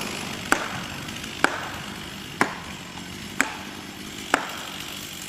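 Felling wedges being struck with a maul: five sharp blows, about one a second, each with a short ring.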